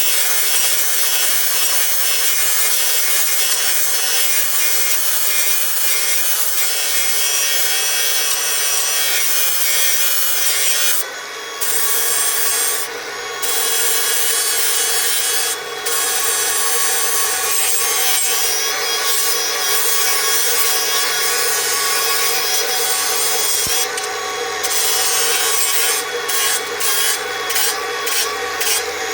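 Milwaukee M18 Fuel cordless angle grinder running at speed and grinding against a solid billet metal piece in one long, steady pass. The grinding noise drops out briefly a few times, at about eleven, thirteen and fifteen seconds. It breaks off in a quick series of short gaps near the end as the wheel is lifted on and off the work.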